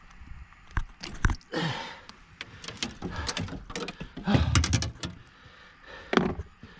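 A series of knocks and thuds with a few short scraping sounds in a small fishing boat, from a landed queenfish and gear being handled on the deck.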